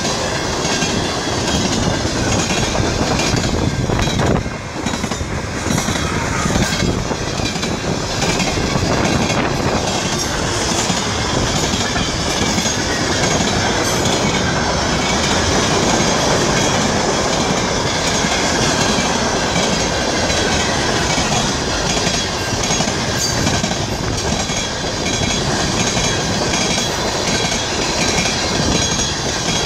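Freight train of tank cars rolling through a level crossing, a steady loud rumble and clatter of wheels on the rails, with the crossing's warning bell ringing.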